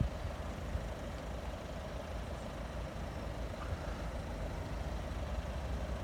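Heavy diesel engine idling steadily with a low rumble.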